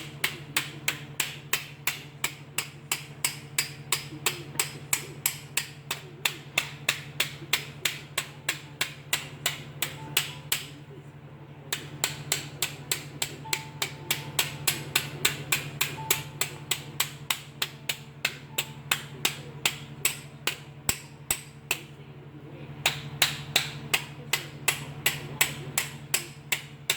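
Hammer tapping a thin tin engine push rod tube over a ratchet held inside it, knocking the dents smooth to straighten it. The taps are quick and even, about three a second, with two short pauses.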